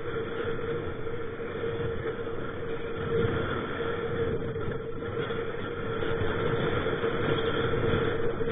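Strong wind buffeting the microphone: a steady rushing rumble that swells slightly in gusts, with a steady hum underneath.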